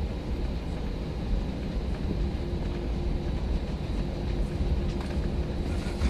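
Cabin noise of an Airbus A319 on the ground after landing: a steady low rumble, with a faint steady hum coming in about two seconds in.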